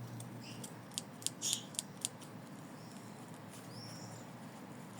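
Scissors snipping through felt, trimming the seam allowance of an embroidered piece: a quick run of about six snips between one and two seconds in, then only faint rustles.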